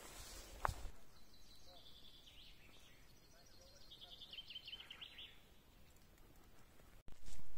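A small songbird sings two short trilled, high-pitched phrases, about two seconds in and again about four seconds in. Footsteps on the trail come in the first second. After an abrupt break near the end, a louder rush of noise sets in.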